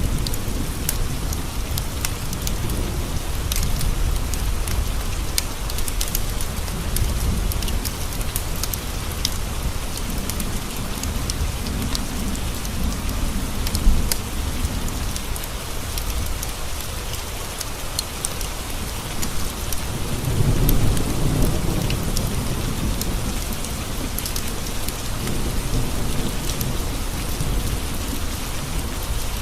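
Steady rain tapping on window glass, with low thunder rumbling and swelling about two-thirds of the way through. Scattered sharp crackles of a wood fire run through it, with one louder pop about halfway.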